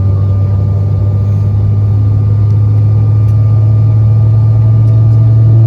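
Jet engine noise inside an airliner cabin: a loud, steady low drone with faint steady tones above it, slowly growing louder and a little higher in pitch toward the end.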